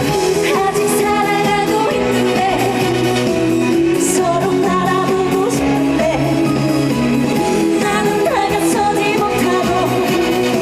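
Live trot song: a singer's amplified vocal over a backing band track with guitar.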